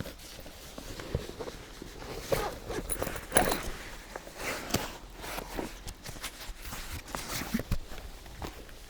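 Footsteps and rustling through forest undergrowth and branches: an irregular run of crunches, scrapes and brushing sounds, busiest in the middle.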